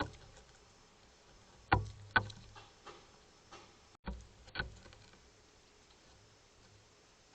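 Irregular sharp taps and knocks close to the microphone, typical of birds pecking at a feeder: about seven in all, the loudest two around two seconds in and another pair a little after four seconds.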